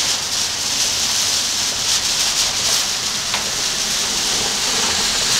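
A steady hiss of water with no pauses or distinct events.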